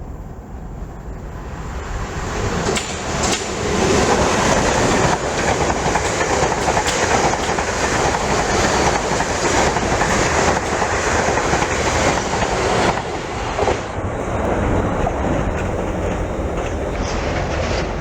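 A train passing, its wheels clicking over the rail joints; the noise builds over the first few seconds, holds loud, then eases after about thirteen seconds.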